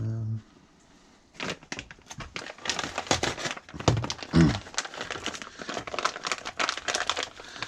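Plastic packaging crinkling and rustling in the hands as a new clutch pedal spring kit is unwrapped, with irregular crackles from about a second and a half in.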